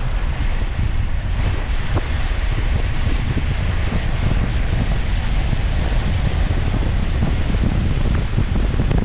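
Wind blowing over the microphone through an open truck window: a steady, loud low rumble.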